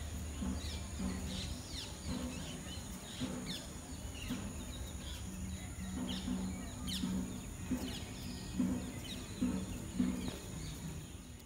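Birds chirping in trees: a steady stream of short, falling chirps from several birds, fading out at the very end.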